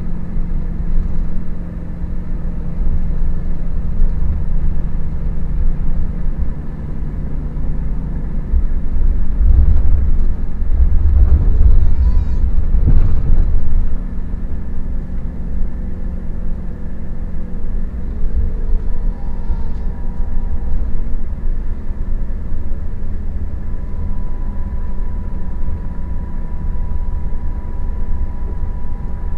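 Scania K400IB coach running on the road: a steady low engine rumble that swells for a few seconds about a third of the way in, then settles. A thin steady whine joins in the second half.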